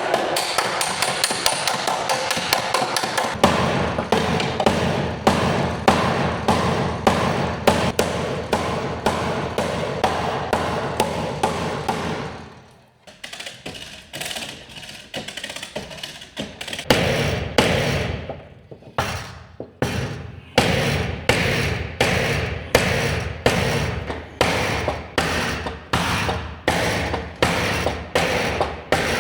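Hammer blows on car body sheet metal, as in panel beating: a fast run of strikes, a short pause a little before halfway, then steady blows about one and a half a second.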